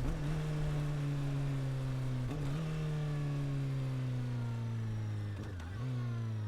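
Honda CB400 Super Four inline-four engine and exhaust decelerating, its note falling steadily. It is downshifted twice, about two and five and a half seconds in, and each shift bumps the pitch back up.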